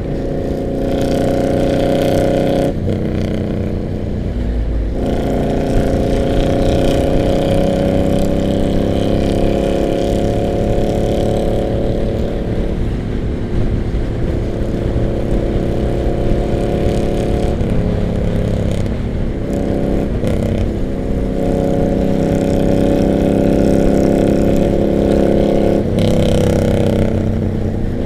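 Harley-Davidson motorcycle engines running on the road, the note rising and falling with the throttle through the ride.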